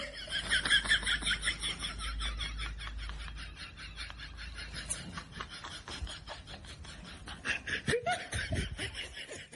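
Continuous high-pitched giggling laughter, a rapid 'hee-hee-hee' pulsing many times a second without a break, with a few louder, lower chuckles a little after the middle.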